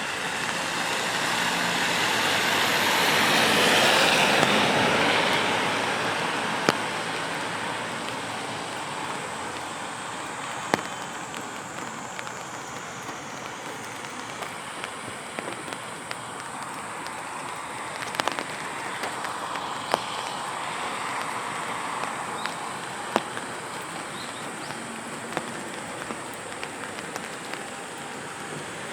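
Steady rain on a wet street, with a car's tyres hissing past on the wet road, swelling to loudest about four seconds in and fading away. Scattered sharp ticks of single drops stand out over the rain afterwards.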